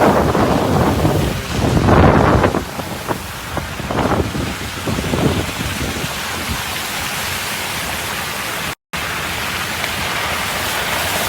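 Hail and heavy rain falling, a dense steady hiss that surges louder in the first few seconds and then settles; it cuts out for a moment about nine seconds in.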